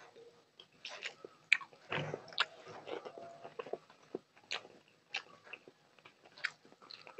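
Close-miked mouth sounds of a person chewing a mouthful of rice and fish curry eaten by hand: wet smacks and clicks, a few a second, beginning about a second in.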